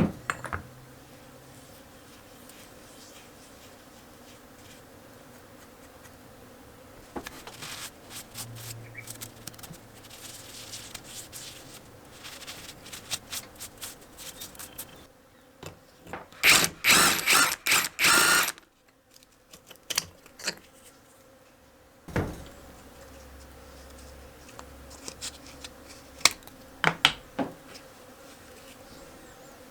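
Hand-tool work on a small Honda lawnmower engine: scattered metal clicks and clinks, with a loud run of rapid clicking lasting about two seconds past the middle and a few sharp clicks near the end.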